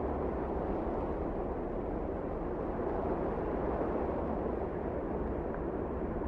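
Wind blowing steadily, a low, even rushing noise.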